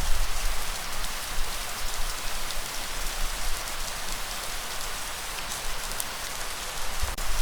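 Light rain falling steadily, an even hiss with fine drop patter, over a low rumble of breeze that swells near the start and again near the end.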